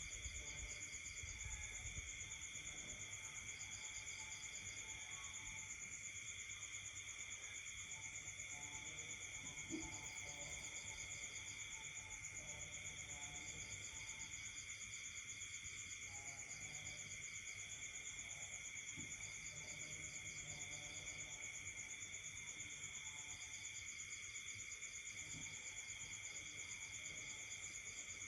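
Night chorus of insects, several high trills running on without a break, one pulsing trill that starts and stops in short bouts, with fainter lower frog calls in between.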